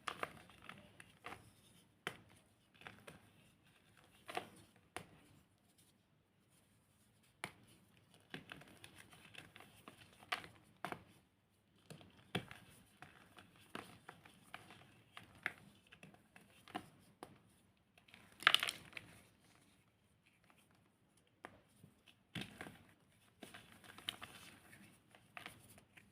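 Dried, re-formed cornstarch chunks being crushed and crumbled by hand: a run of irregular, crisp crunches and crackles, with one louder crunch past the middle.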